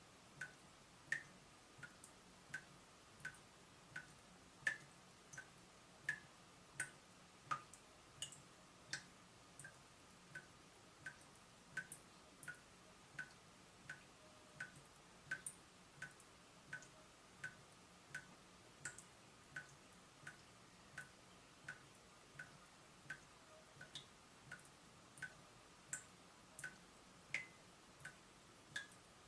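Leaking tap dripping steadily, a short plink about every two-thirds of a second.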